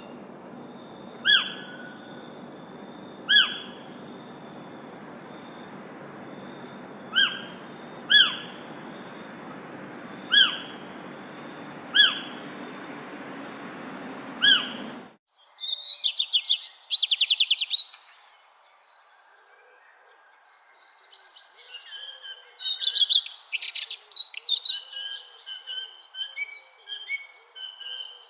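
Birds calling. For about the first fifteen seconds one bird gives a short call every second or two over a steady background hiss. Then the sound cuts abruptly to songbirds singing, with rapid trills and varied phrases.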